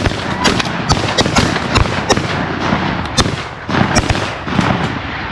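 A volley of shotgun fire from a line of waterfowl hunters shooting at geese together: many rapid, overlapping shots, thinning out near the end.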